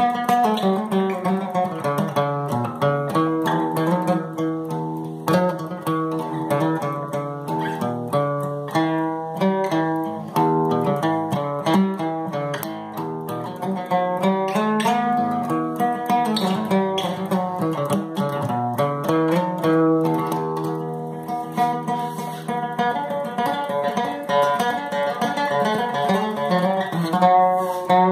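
Guitar being played: a steady stream of quick picked notes over ringing lower notes.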